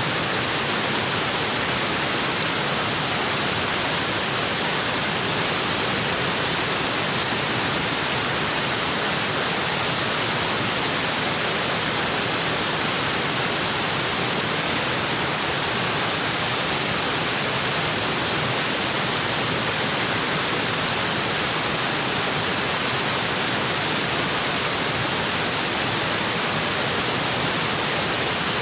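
Waterfall: water pouring steadily onto rocks in a constant, even rush.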